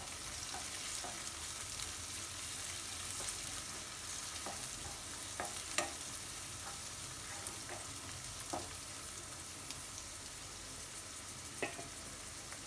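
Chopped onion with crushed garlic, ginger and green chilli paste sizzling in hot mustard oil in a metal kadai. A wooden spatula stirs it, with a few faint scrapes and taps against the pan.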